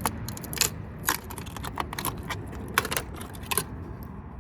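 Metal tools clicking and clinking against a circuit board as small transformers are pried off it: a dozen or so sharp, irregular clicks.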